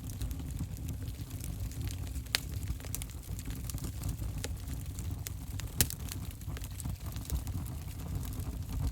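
Wood fire burning in an open fireplace: a low steady rumble of flame with scattered sharp crackles and pops, the loudest a little over two seconds in and again near six seconds.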